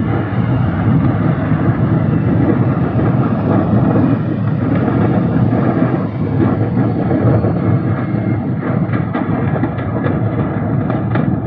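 A large fire roaring steadily, with a few sharp crackles in the last few seconds.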